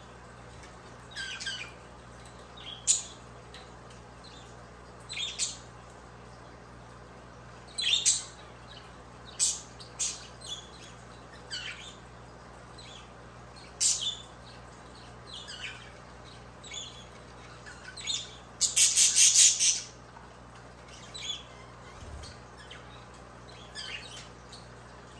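Budgerigars calling: short chirps and squawks every second or so, with a loud, rapid run of chattering calls lasting about a second and a half near the three-quarter mark.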